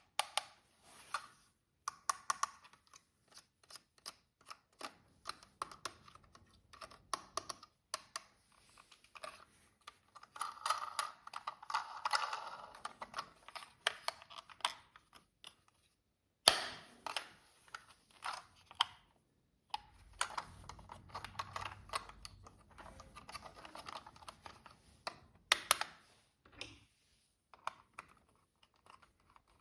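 Hands handling plastic toy parts and packaging: irregular clicks and taps with bursts of rustling.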